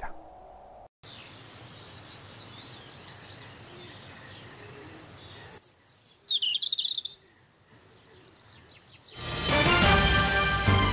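Birds chirping and calling over a steady outdoor hiss, with a louder burst of chirps about six seconds in. Music starts loudly near the end.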